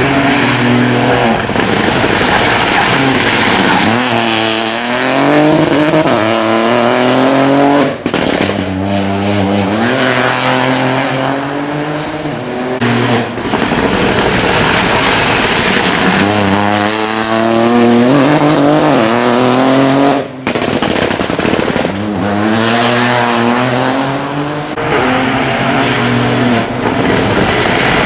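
Rally cars at full race pace, engines revving hard and climbing through the gears with repeated rises and drops in pitch. There are three separate runs, cut off abruptly about 8 and 20 seconds in.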